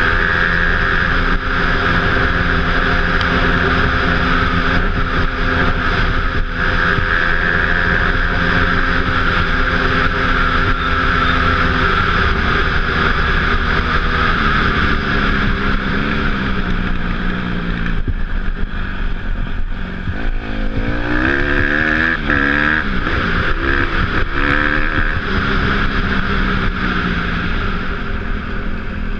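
Dirt bike engine running while riding, with wind rushing over the microphone. The engine note holds steady at first and eases down about halfway. In the second half it rises and falls quickly several times as the throttle is worked.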